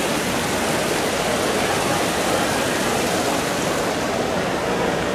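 Fountain water pouring and splashing, a steady rushing noise.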